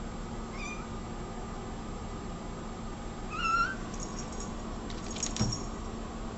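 Domestic cat meowing: a faint meow soon after the start and a louder, rising meow about three and a half seconds in. A short sharp click comes about five and a half seconds in.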